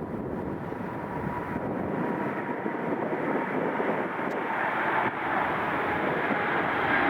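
Jet airliner's engines: a steady rushing noise with a faint whine, slowly growing louder as the aircraft nears.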